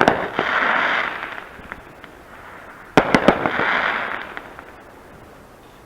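Fireworks going off: a quick cluster of sharp bangs right at the start and another about three seconds later, each trailing off over a second or so.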